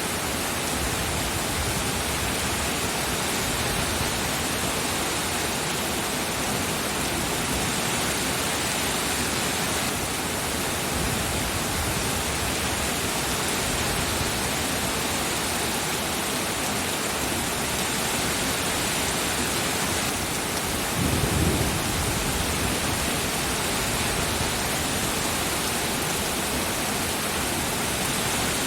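Steady rain falling, an even hiss. About three quarters of the way through, a brief low rumble of thunder.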